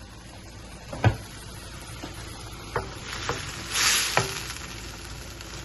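White wine sizzling in a hot pan as the alcohol cooks off after deglazing, with a utensil knocking against the pan a few times and a louder hiss about four seconds in.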